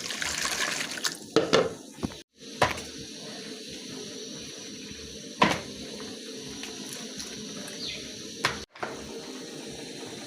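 Steady watery hiss with a few sharp knocks of pots and utensils; the sound cuts out abruptly twice.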